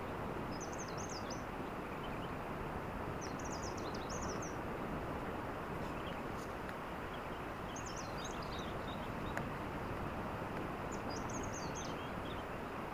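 Steady rushing outdoor night ambience at a beach, with four short bursts of high, quick chirping calls, roughly one every three to four seconds.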